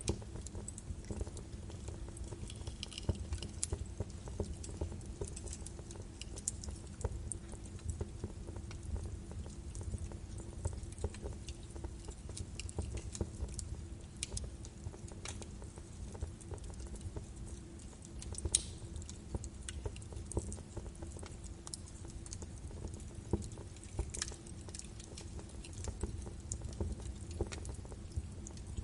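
Birch-wood fire burning in a fireplace: a steady low rumble of the flames with frequent small crackles and sharper pops scattered throughout.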